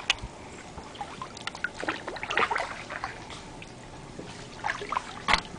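Kayak paddle strokes in shallow water: intermittent splashing and dripping water, with a couple of sharp knocks.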